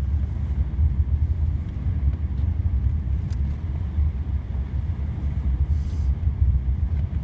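Ford Edge driving through snow, heard from inside the cabin: a steady low rumble of engine and tyres, with a few faint ticks and a short hiss about six seconds in.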